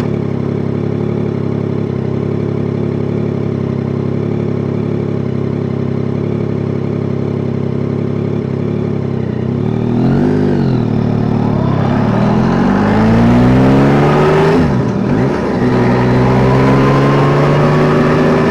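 Yamaha Tracer 9 GT motorcycle's 890 cc inline three-cylinder engine running steadily, then revved briefly and let drop about ten seconds in. It then pulls away with its pitch climbing, dips briefly at a gear change near fifteen seconds, and climbs again.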